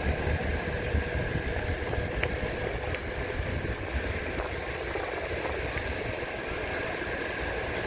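Wind buffeting the microphone over surf, with a Onewheel's tyre crunching over beach shells in scattered small clicks and a faint steady whine beneath.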